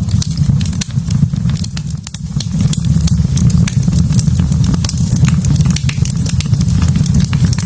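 Wood fire burning in a fireplace, crackling with many sharp pops over a steady low rumble.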